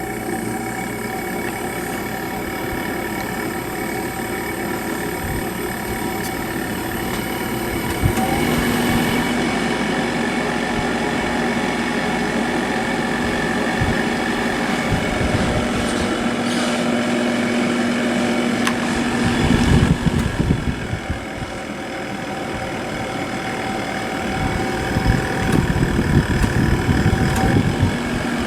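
Window air conditioner running, its fan humming steadily. About eight seconds in the sound steps up as a steady low hum joins, the compressor kicking on. Uneven low fluttering rises around twenty seconds and again near the end.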